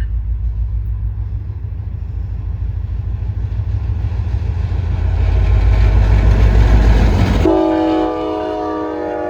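Diesel freight locomotive passing close, its engine rumble and rail noise growing louder. About seven and a half seconds in, its multi-chime air horn sounds one long, steady blast.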